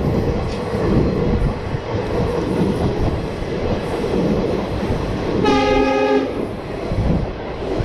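Passenger train running, a steady rumble and rattle heard from inside the carriage. About five and a half seconds in, a train horn sounds once, held for under a second.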